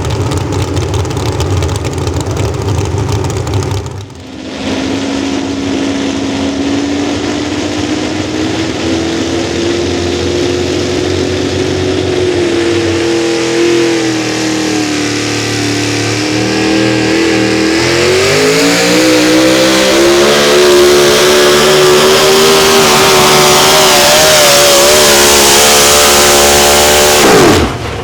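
Pulling tractor or truck engine running hard under load. Its pitch climbs slowly, sags partway, then climbs again with a rising hiss, and it drops off sharply near the end as the throttle comes off.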